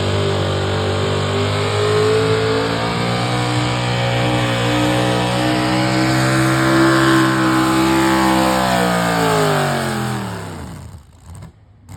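A pulling truck's engine at full throttle under heavy load, holding high revs that edge up slightly, then about eight seconds in the revs fall away steadily and the engine drops to near quiet as the pull ends.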